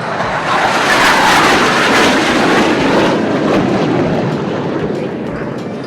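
BAE Hawk jet trainers flying past, jet noise swelling to a peak about a second in, dropping in pitch as they pass, and fading away over the last few seconds.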